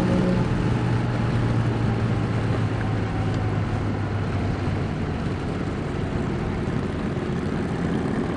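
Motorcycle engine running steadily at highway cruising speed, with a steady rush of wind noise over it.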